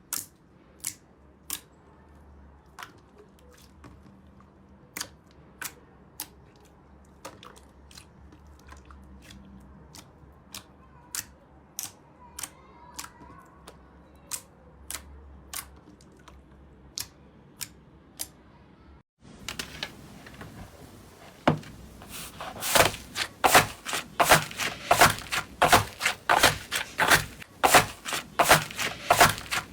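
Slime being squeezed and poked by hand, giving sharp little pops and clicks a second or so apart. After a short break, a denser, louder run of crackling pops.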